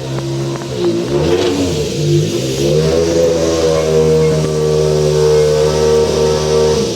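Rally car engine at high revs: the pitch dips and wavers briefly about a second in, then climbs and holds high and steady until it cuts off abruptly at the end.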